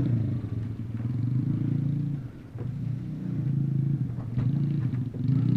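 Dirt bike engine running on the track, its pitch rising and falling as it is throttled up and down, easing off briefly about two seconds in.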